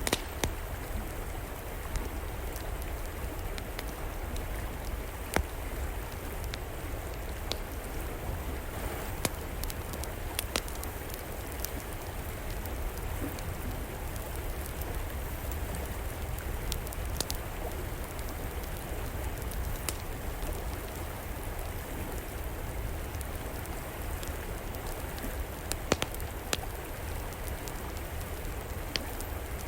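A river flowing in a steady rush, mixed with an outdoor wood fire crackling. The fire gives scattered sharp pops every few seconds over the water.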